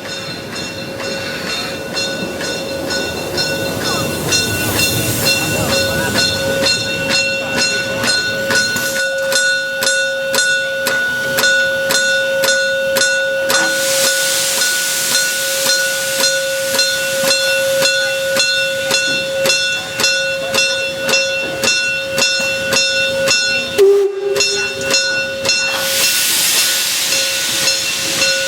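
Swedish steam locomotive SJ 1916 working under steam: a steady run of exhaust chuffs, about three a second, with a constant whine over them and recurring surges of steam hiss.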